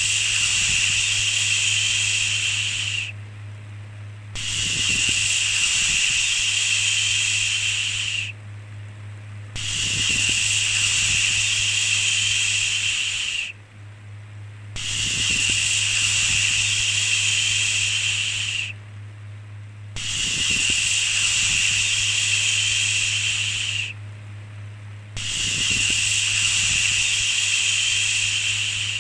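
A long 'shhh' shushing sound repeated over and over, each shush lasting about four seconds with a short pause before the next. A steady low hum runs underneath.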